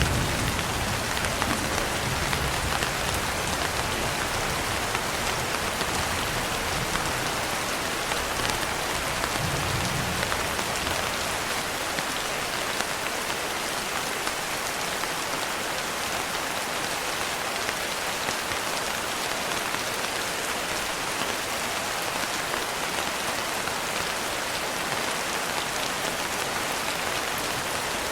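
Steady rain falling, an even hiss of drops with no pauses. A low rumble of thunder dies away over the first few seconds, and another short rumble comes about ten seconds in.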